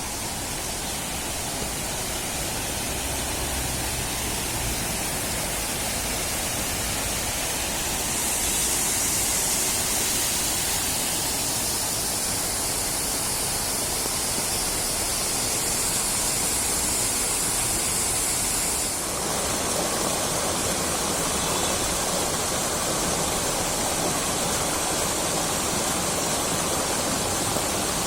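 Water of the Neer Garh waterfall's lowest cascade rushing steadily over rocks.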